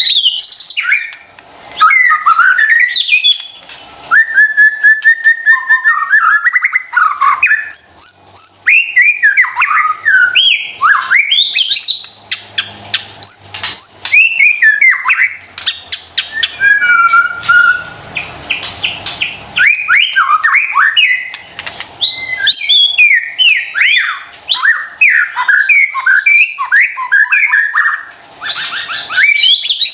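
White-rumped shama singing a long, varied song of loud whistled phrases, rising and falling notes and quick repeated chattering notes, broken by short pauses.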